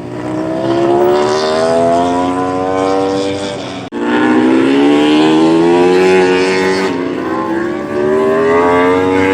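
MotoGP racing motorcycle engines running at high revs, their pitch climbing steadily as the bikes accelerate. The sound breaks off abruptly about four seconds in and comes straight back, climbing again.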